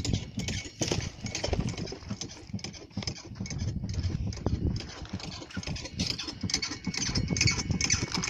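Rocks and gravel clattering in quick irregular knocks over a low rumble, typical of dirt being run through a dry washer.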